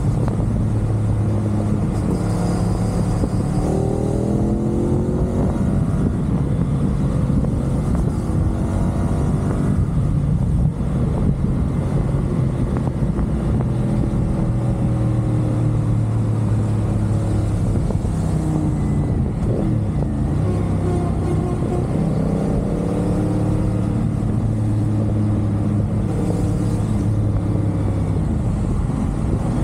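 CFMoto 450SR sports bike's parallel-twin engine under way at expressway speed, the revs rising in several sweeps and holding steady between them, over a steady rush of wind.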